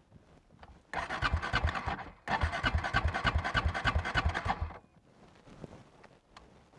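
Honda Monkey 125's electric starter cranking the engine in two tries, a short one of about a second and then a longer one of about two and a half seconds, each with a rhythmic pulsing of about five thumps a second. The engine does not keep running and falls quiet after the second try.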